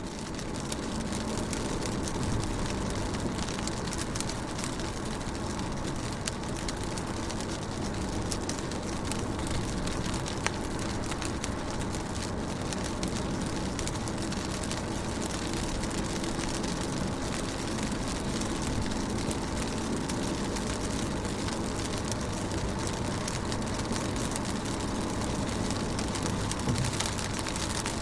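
Steady rain on a car's windows and body, heard from inside the car: a dense patter of many small drop ticks over a low, even rumble.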